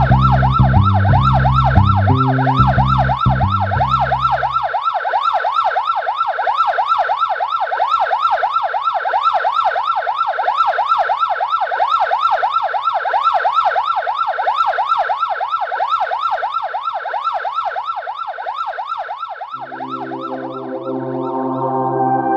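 Siren sounding a fast yelp, its pitch rising and falling about four times a second and slowly fading out. A low pulsing bass runs under it for the first few seconds, and music comes in near the end.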